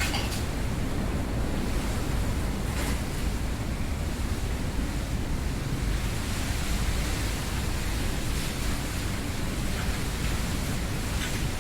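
Storm wind blowing through a winter garden: a steady rushing noise with a deep rumble underneath, and a few faint brief ticks scattered through it.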